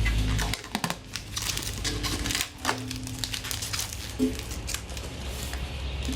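Protective plastic film crinkling and crackling in irregular bursts as it is peeled and handled by hand, busiest in the first few seconds.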